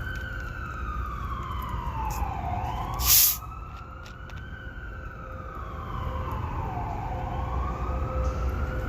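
A siren wailing slowly, its pitch rising and falling in long swells about every four or five seconds. A short, loud hiss cuts in about three seconds in.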